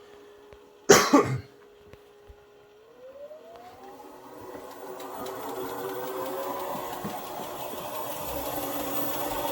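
Indesit 1400-spin washing machine's permanent-magnet motor and drum speeding up in the spin: a steady whine starts rising in pitch about three seconds in as the running noise builds louder. A brief loud noise comes about a second in.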